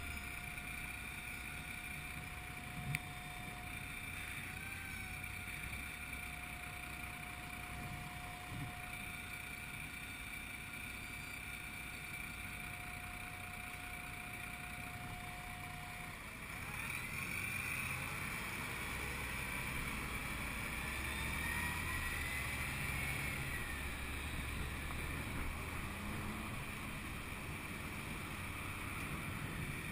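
2011 Honda VFR800 V4 motorcycle engine, heard through a helmet-mounted camera with wind noise. It runs low and steady in traffic, with a steady high tone above it, until about halfway. Then the tone stops and the bike pulls away, louder, its pitch rising as it accelerates.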